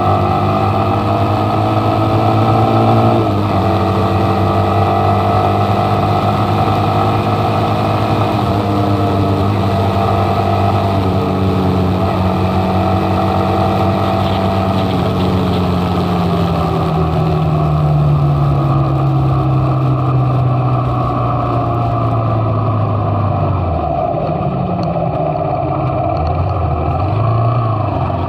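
Motorcycle engine running under way, its pitch shifting about three seconds in, then falling slowly for several seconds as it slows, and rising again near the end.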